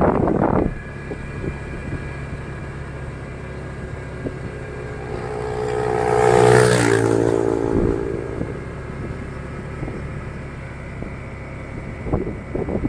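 Motorcycle engine running steadily while riding, with wind buffeting the microphone at the very start. Midway a louder sound swells up and then falls in pitch, like a vehicle going past.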